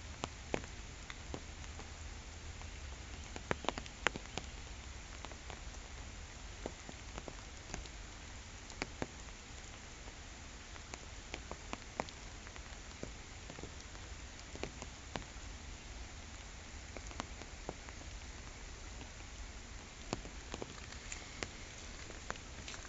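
Steady rain falling on a pond, with scattered louder drops striking close by.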